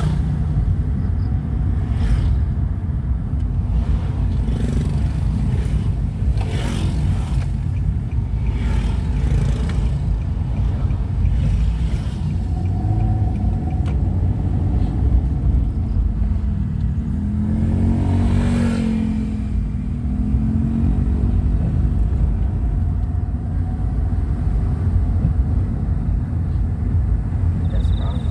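Steady low rumble of a motor vehicle travelling on a road. Around the middle, an engine note rises and falls.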